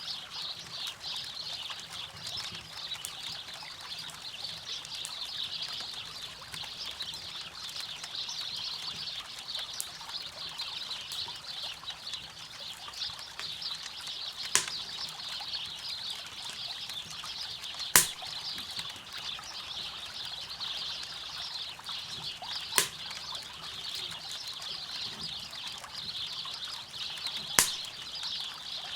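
River water running steadily with a bright, busy babble, and a campfire giving four sharp pops, the loudest a little past the middle.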